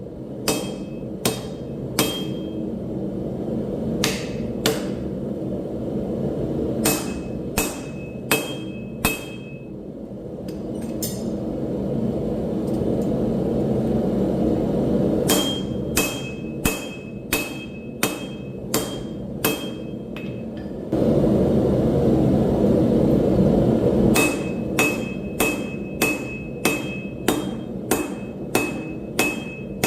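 Hammer blows on hot steel over an anvil, the anvil ringing with each strike, coming in runs of several blows with pauses between, about two blows a second in the last run. A steady rushing noise runs underneath and grows louder for a few seconds in the last pause.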